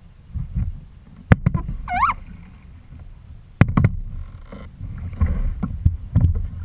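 Water sloshing and knocking against a kayak's hull, with two sharp knocks, about a second and three and a half seconds in, and a short rising-and-falling chirp between them.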